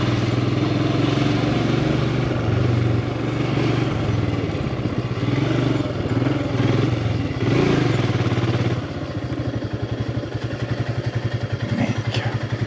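Motorcycle engine running steadily while riding, then about nine seconds in it drops back to a quieter, evenly pulsing idle.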